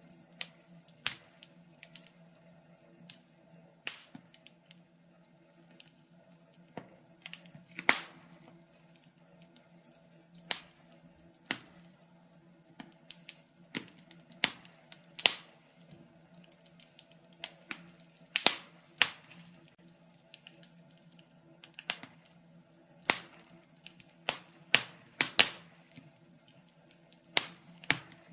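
Wood fire in a fireplace crackling, with sharp irregular pops and snaps a few times a second over a faint steady hum.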